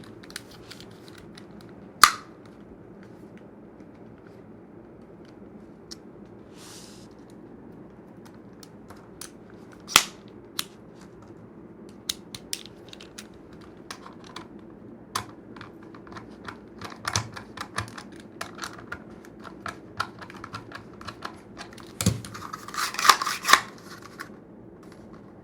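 Hard plastic clicks and snaps from a pistol and kydex holster being handled while the holster's retention is tried: two loud single snaps about two and ten seconds in, scattered lighter clicks, and a quick flurry of clicks near the end, over a faint steady hum.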